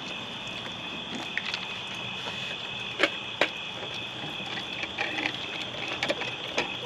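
Crickets chirping steadily, with a scatter of sharp clicks and knocks over it: two loudest about three seconds in, then smaller taps from about five seconds on.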